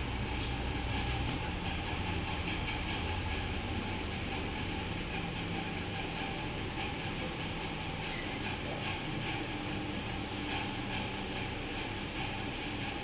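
Steady mechanical hum with a low drone and a faint hiss, with occasional light ticks.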